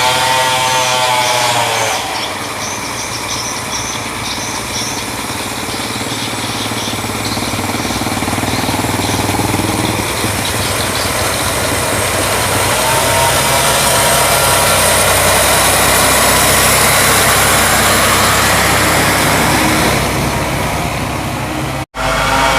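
Heavy loaded timber truck's engine running under load, its revs rising and falling as it works. The sound cuts out briefly near the end.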